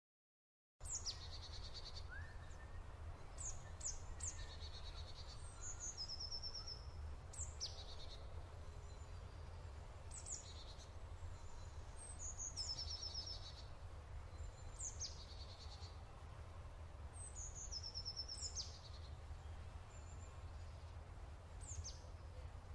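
Wild birds singing in woodland, short high phrases with falling notes and trills recurring every couple of seconds, over a steady low rumble.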